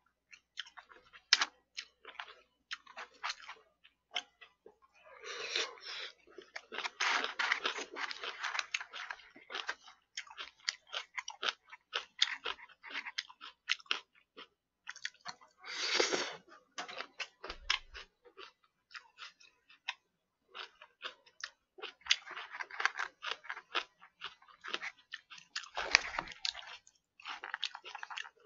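Close-miked chewing and mouth sounds of a person eating: many quick, wet clicks, with several longer, noisier stretches of chewing.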